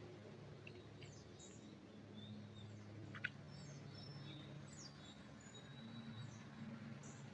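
Faint wild birds calling in a forest: scattered short, high chirps and quick sweeping notes over a low, steady background hum, with one sharp click about three seconds in.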